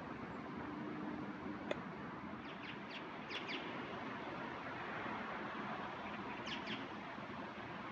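Small birds chirping in short calls, a few around three seconds in and again near the end, over a steady hiss of background noise, with one sharp click a little under two seconds in.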